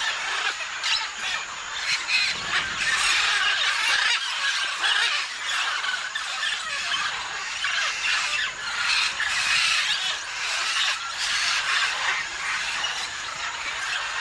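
A flock of parrots squawking and screeching all at once, a dense, unbroken chorus of shrill calls.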